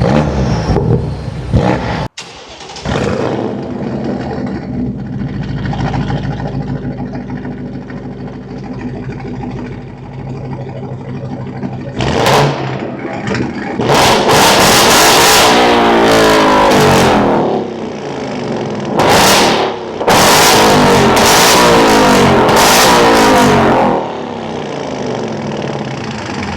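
V8 performance car's engine and exhaust idling, blipped once, then held at high revs for a few seconds, revved briefly again and held high once more before dropping back to idle near the end.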